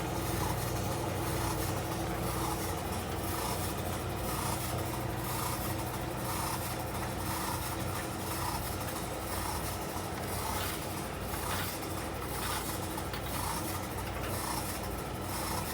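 Compact portable electric tumble dryer running: a steady motor hum and fan whir, with a faint rubbing that repeats about once a second as the stainless steel drum turns.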